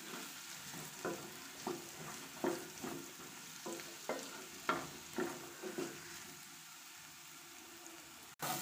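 Banana pieces frying in ghee in a pan with a steady sizzle, being stirred, the stirring utensil scraping and knocking against the pan every half second to a second. The stirring stops about six seconds in, leaving only the sizzle.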